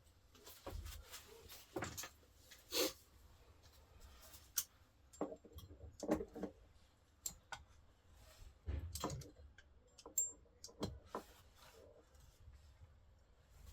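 Scattered clicks and light metallic knocks from hand tools and valve parts being handled while fitting valve keepers on a cylinder head, a few with a brief ring.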